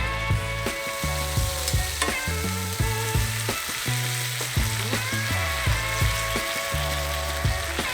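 Thin-sliced pork in ginger-soy marinade sizzling in a frying pan as the sauce reduces, a steady hiss under background music with a regular bass line.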